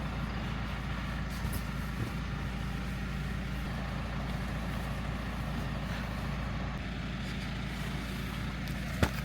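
Steady drone of a motor vehicle running, with a low hum, and a few sharp clicks near the end.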